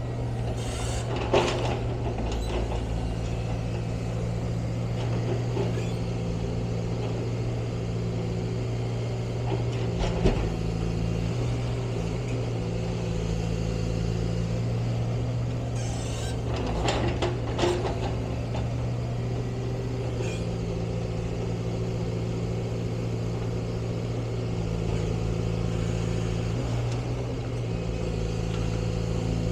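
Diesel engine of a heavy demolition machine running steadily, with a few short clatters of rubble or metal about a second in, around ten seconds in, and again near the middle.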